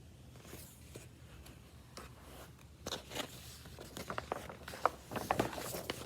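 Handling noises: a run of small clicks, taps and scrapes that grows busier about three seconds in.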